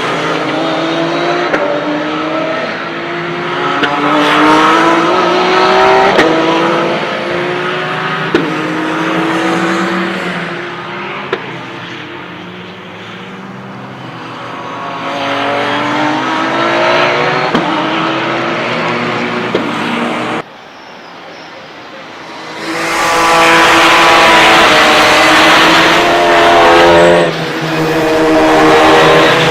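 Porsche 911 GT3 Cup race cars' flat-six engines at full throttle, the note climbing through the revs and snapping back again and again as the cars shift up through the gears while passing. The sound drops suddenly about two-thirds of the way in, and a louder car follows from about 23 seconds.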